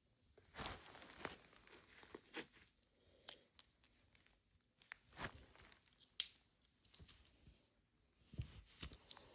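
Faint, scattered light clicks and brief rustling from small plastic miniature grocery items being handled and set into a toy refrigerator.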